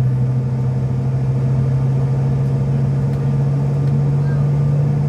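Cabin drone of a CRJ-700's rear-mounted GE CF34 turbofan engines: a loud, steady low hum with a fainter higher tone above it, creeping slightly up in pitch.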